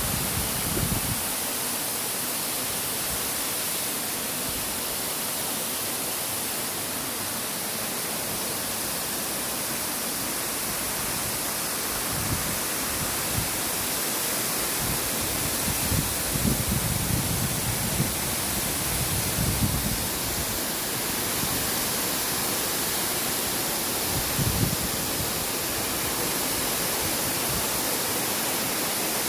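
Steady hiss of rain falling, with a few short low rumbles now and then, strongest about 16 to 20 seconds in.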